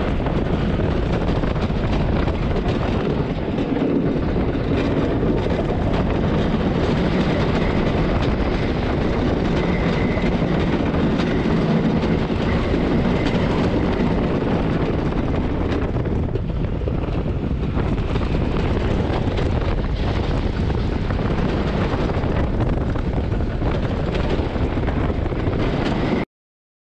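Wooden roller coaster train running along its track, heard on-ride: a loud, continuous rumble and rattle of the wheels on the wooden track. It cuts off suddenly near the end.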